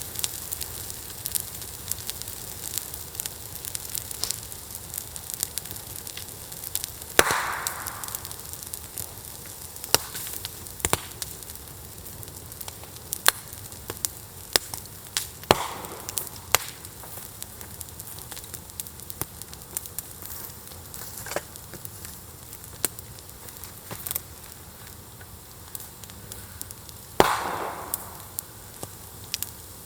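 Open wood fire crackling, with frequent sharp pops and snaps over a steady hiss. Three louder bursts of about a second each come about a quarter of the way in, about halfway, and near the end.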